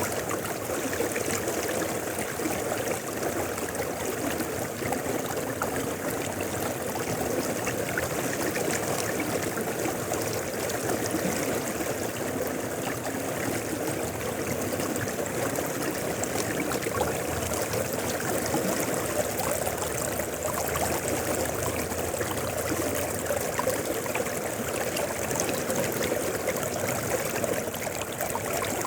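Mountain river flowing: a steady, unbroken rush and babble of running water.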